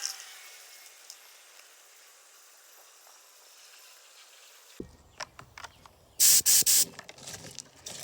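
Three short, loud bursts of hissing spray from a pressurised nozzle, after a few light handling clicks.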